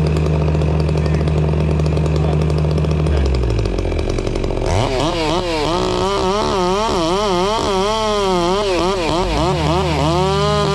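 A steady engine hum winds down about three seconds in. Then a chainsaw revs up and down rapidly as it cuts, and the steady low engine hum comes back under it near the end.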